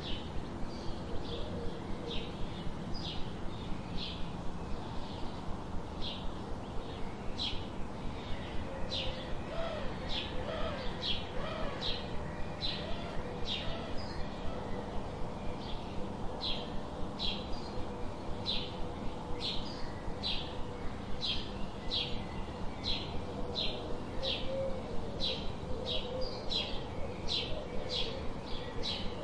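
Birds chirping: a short, high chirp repeats about twice a second over a steady background hiss, with softer, lower wavering calls now and then.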